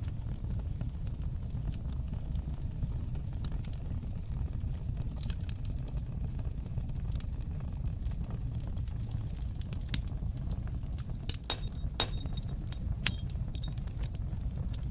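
Wood fire burning in a fireplace: a steady low rumble of flames with scattered small crackles. Several louder pops come near the end, one sharp snap standing out.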